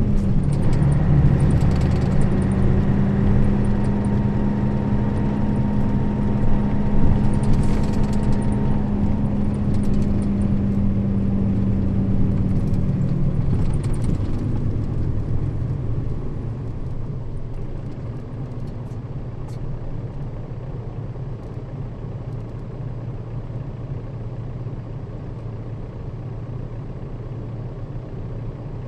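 Nissan Diesel KL-RA552RBN city bus running, its diesel engine pulling with a steady drone over low rumble. About 13 seconds in the drone stops as the engine comes off load, leaving a quieter engine and road rumble.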